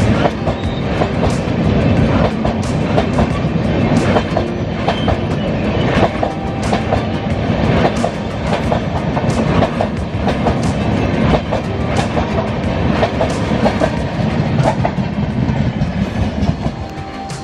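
Train running along the track, a steady heavy rumble with the wheels clacking over rail joints, sharp clicks coming about once or twice a second throughout.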